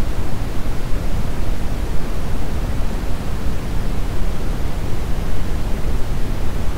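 Brown noise: a steady, even rushing hiss weighted heavily toward the low end, with no rhythm or change.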